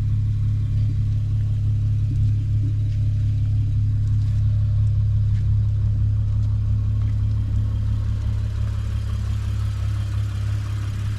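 Toyota Mark X V6 with a modified exhaust running steadily, a constant low drone that eases slightly near the end.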